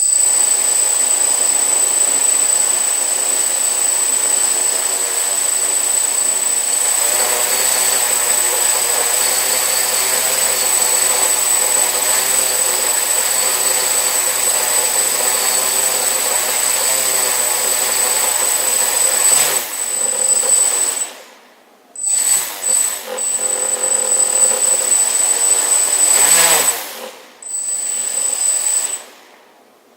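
Brushless motors of a MultiWii multirotor running with a steady high whine over a buzzing hum, making the strange noise the owner is investigating as a motor problem. The sound shifts about 7 s in, and in the second half the motors cut out and spin back up several times.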